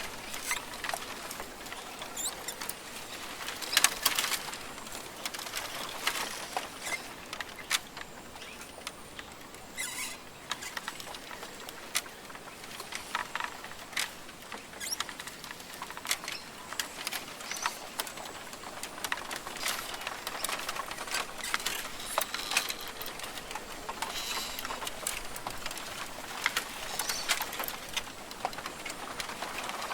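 Rainforest ambience: scattered sharp ticks and patters over a steady high hiss, with a faint high bird call.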